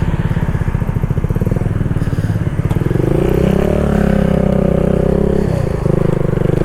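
Kawasaki Z125's small single-cylinder engine with an aftermarket exhaust, running under way as the motorcycle is ridden. The engine note rises about halfway through, holds steady, drops out briefly near the end, then picks up again.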